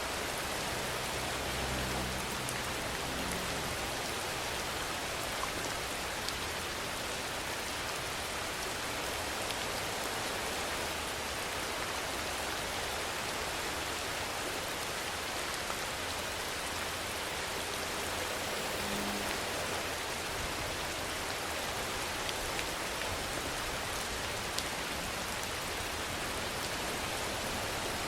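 Steady rainfall: a constant, even hiss with scattered faint taps of single drops.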